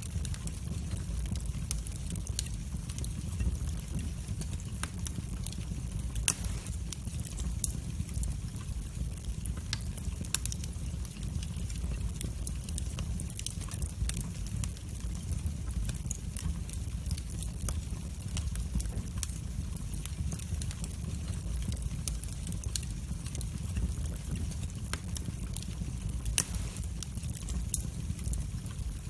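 Wood fire burning in a fireplace: a steady low rumble of the flames with frequent sharp crackles and pops, the loudest pops about six seconds in and near the end.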